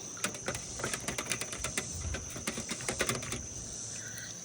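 Crickets chirring steadily, with a run of quick, irregular clicks and light knocks that stops a little past three seconds in.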